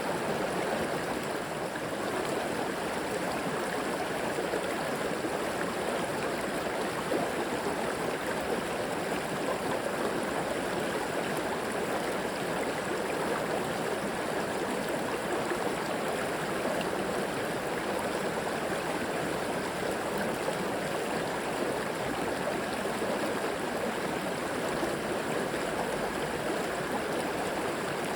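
Steady rushing and gurgling of a flowing river or creek.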